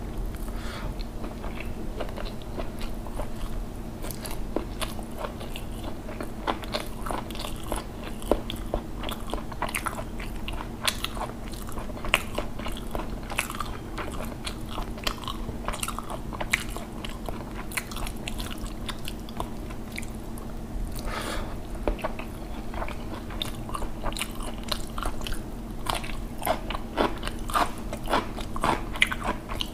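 Close-up chewing and biting of rice and curry eaten by hand, with wet mouth sounds and crunchy bites, and fingers mixing rice on the plate. A low steady hum runs underneath.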